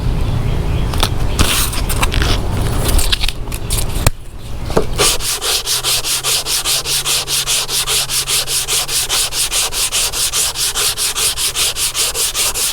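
Hand block-sanding with 80-grit sandpaper over guide-coated body filler, a rasping rub. The strokes are uneven at first, then from about five seconds in turn into fast, even back-and-forth strokes, about five a second. Blocking like this cuts the high spots and leaves guide coat in the low areas.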